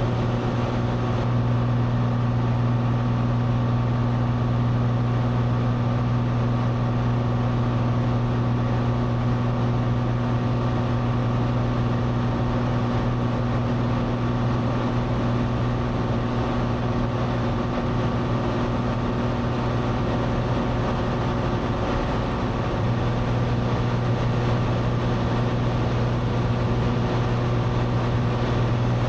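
Cessna 182's six-cylinder piston engine and propeller droning steadily in flight, heard from inside the cabin, with a deep, even hum and no change in power.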